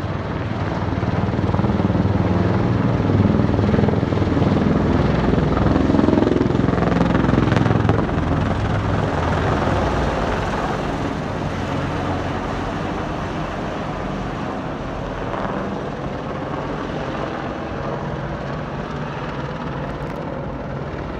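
A display aircraft flying a stunt, its engine noise swelling over the first two seconds, loudest until about eight seconds in, then slowly fading as it moves away.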